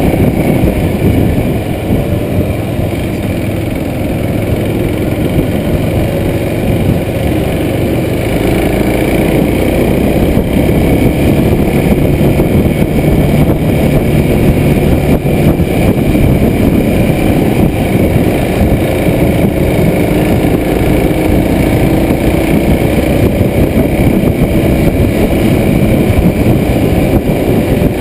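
Kawasaki Super Sherpa 250 cc single-cylinder engine running under load as the motorcycle rides uphill, heard from a chest-mounted camera on the rider.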